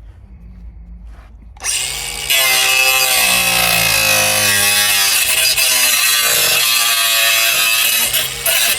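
Angle grinder starting up and grinding the car's steel sill to clean it up, a loud continuous grind whose motor pitch wavers as the disc is pressed into the metal. It starts a little under two seconds in and gets louder a moment later.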